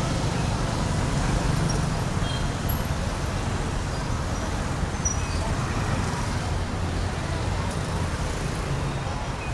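Steady city street traffic: a continuous low rumble of passing motor vehicles, with a few short high-pitched chirps scattered through it.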